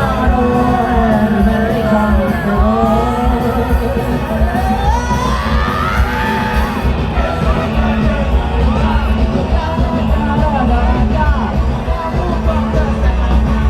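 Loud band music with singing and shouted vocals over a heavy, steady bass, with a long rising pitch glide about five seconds in.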